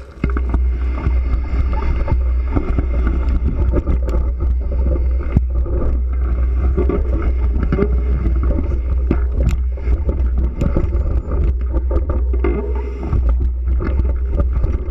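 Heavy wind buffeting on the microphone of a camera riding along on a bike, with constant rattling and clicking from the mount and the ride over the road.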